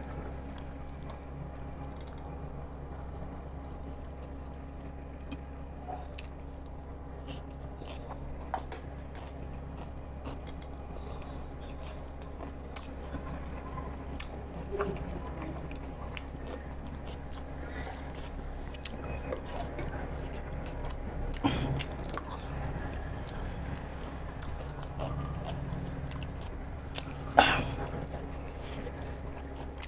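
Close-up mouth sounds of a person chewing food, with scattered small clicks and a few crisper crunches, the loudest near the end, over a steady low hum.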